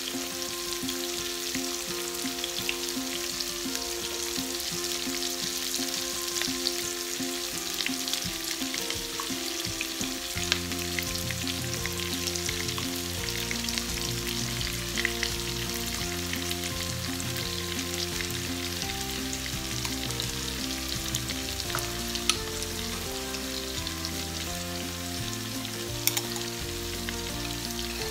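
Chopped onion and potato frying in hot oil in a pan, a steady sizzle, with a few sharp ticks as sun-dried tomatoes are spooned in.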